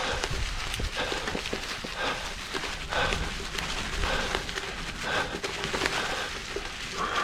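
A mountain biker breathing hard while riding, about one breath a second, over the steady crackle and ticking of the tyres on the trail.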